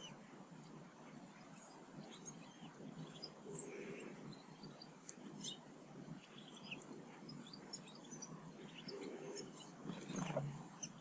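Small garden birds giving short, scattered chirps and calls, faint against a low background rumble. There is one sharp high chip about three and a half seconds in and a brief soft thump about ten seconds in.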